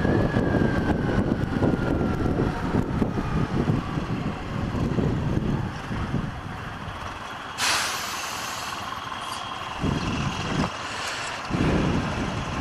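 Road noise heard from a moving motorcycle: engine and wind rumble that eases off about six seconds in as it slows. A sudden hiss follows a little later, typical of a truck or bus releasing its air brakes, then a few short engine rumbles from nearby traffic.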